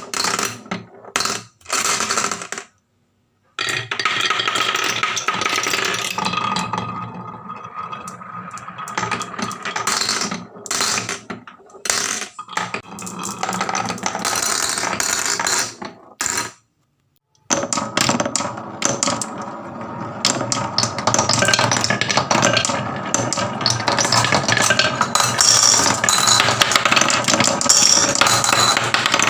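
Marbles and small toy trucks clattering down a wooden HABA marble-run slope in a dense, continuous rattle, broken by two brief silences about three seconds in and about sixteen seconds in.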